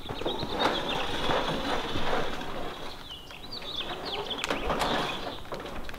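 Small birds chirping in short high notes, in two clusters near the start and about halfway through, over a low rustle. Scattered sharp clicks and knocks come later.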